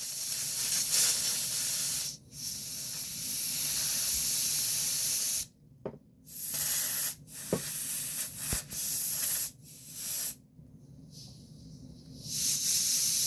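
Can of compressed air blowing into a speaker system's power switch in a series of hissing bursts, some lasting a few seconds and others short, with a lull near the end. The air is clearing dust from switch contacts that are suspected of causing a buzz.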